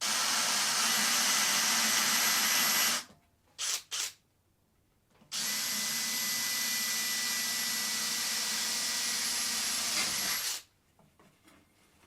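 Handheld electric power tool running at steady speed: about three seconds, two quick blips of the trigger, then about five seconds more before it stops.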